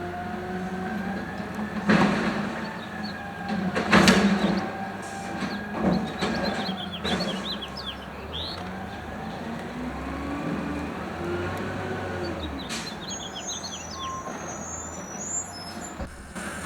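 Automated side-loader garbage truck running, with the arm banging a recycling cart against the hopper: a loud bang about four seconds in and lesser bangs around two and six seconds, over the steady engine and a hydraulic whine that rises and falls.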